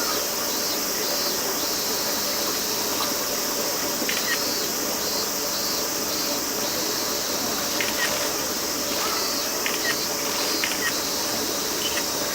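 Steady high-pitched drone of insects, with a few short, sharp chirps or clicks now and then.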